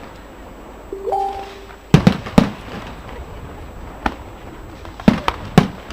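Fireworks display: aerial shells bursting with sharp bangs. There is a quick cluster of three about two seconds in, a single bang a couple of seconds later and another quick cluster of three near the end, each followed by a short echoing tail.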